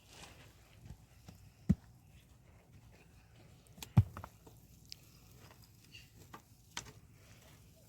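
Scattered light knocks and taps, with two louder thumps about a second and a half in and about four seconds in.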